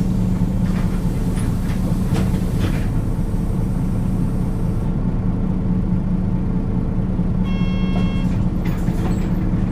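Diesel engine of a Nissan Diesel KL-UA452KAN city bus running as the bus drives, heard from inside the cabin as a steady low drone with light rattles. A short electronic tone sounds once near the end.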